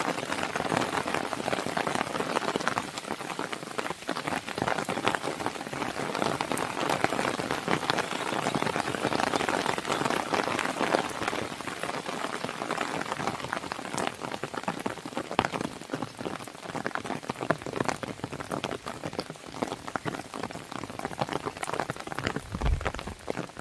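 Steady rain pattering against a window, mixed with a crackling fire that gives many small pops and clicks. A brief low thump comes near the end.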